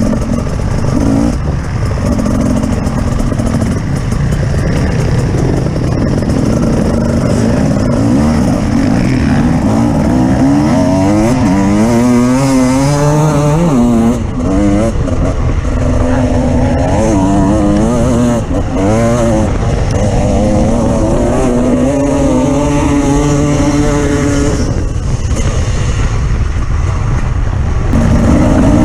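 Off-road vehicle engine running under load, its pitch rising and falling repeatedly through the middle stretch as the throttle is worked over rough terrain.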